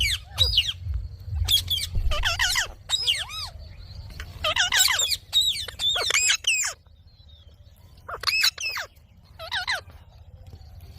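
Indian ringneck parakeet squawking in a run of short, sharp bursts of calls, with a brief lull about seven seconds in.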